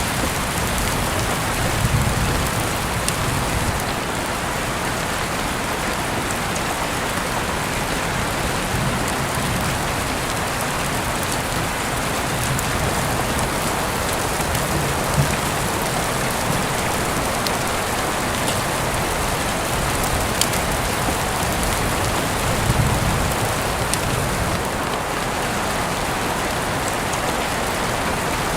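Steady rain falling on a surface, an even dense hiss with a few faint clicks and a couple of brief low swells.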